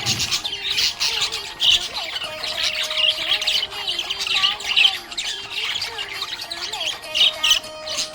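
Budgerigars chirping and chattering: a dense, unbroken stream of quick chirps and squawks, with some lower warbled notes underneath.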